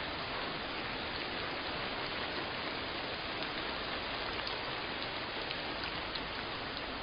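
Steady rainfall: an even hiss of rain, with a few individual drop ticks standing out now and then.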